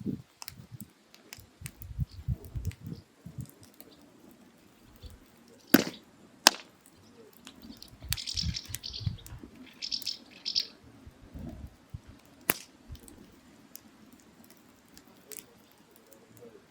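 Firewood burning in a mangal, crackling with scattered sharp pops; the three loudest snap about six, six and a half and twelve and a half seconds in.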